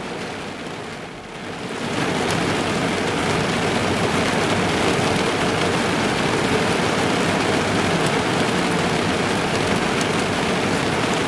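Heavy rain drumming on a car's roof and windows, heard from inside the car. It eases briefly, then grows louder about two seconds in and holds steady.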